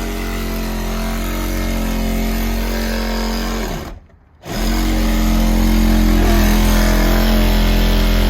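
A vehicle engine running steadily at idle. It drops out abruptly for about half a second around four seconds in, then comes back slightly louder.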